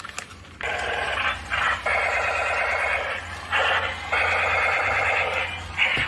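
Electronic warbling tones from a small speaker, in four repeated bursts a second or so long with short gaps between them.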